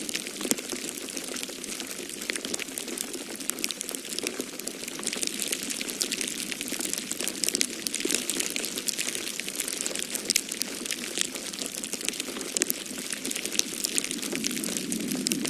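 Wood fire crackling in a fireplace, with dense, irregular pops and snaps over a steady low rushing noise.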